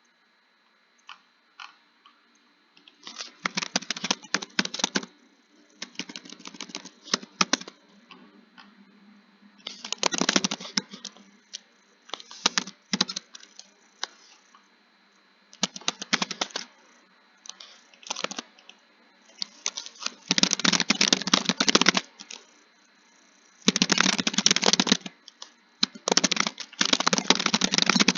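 Typing on a keyboard: a few single keystrokes, then quick runs of key clicks lasting a second or two each, with short pauses between them.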